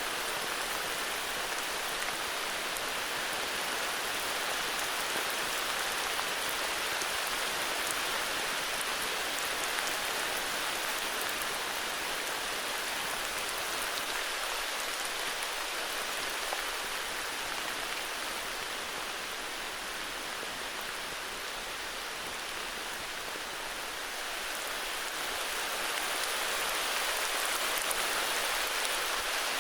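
Heavy rain falling steadily, a dense even hiss of drops with fine pattering, easing slightly partway through before picking up again near the end.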